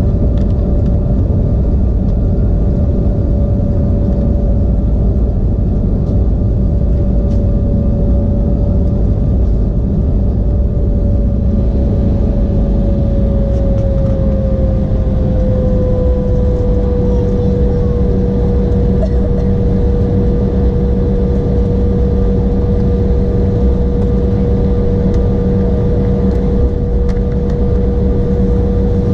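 The Embraer E175's General Electric CF34-8E turbofan engines running at low power, heard inside the cabin as a steady whine over a low rumble. About halfway through, the whine drops slightly in pitch and then holds.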